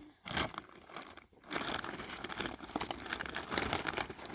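Crinkling, rustling noise: a short burst, then a steady spell of dense crackling from about a second and a half in.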